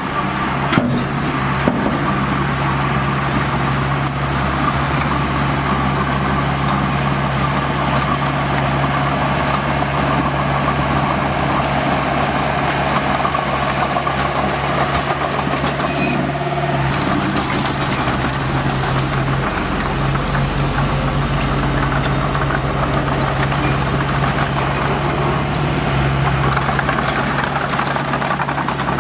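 Diesel engine of heavy earthmoving equipment running steadily, with a couple of sharp knocks about a second in and a change in the engine note just past halfway.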